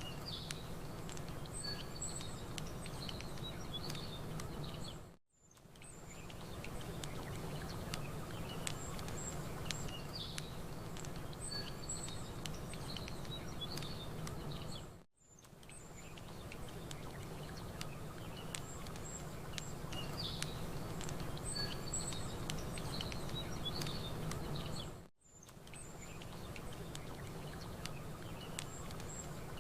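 Campfire crackling with small birds chirping and a steady low wash of water. The sound drops out briefly three times, about ten seconds apart, as the same stretch repeats.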